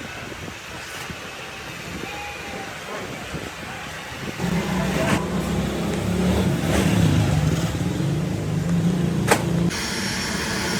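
An engine runs loudly for about five seconds, starting about four seconds in, with its pitch wavering a little. It stops abruptly near the end, just after a sharp click.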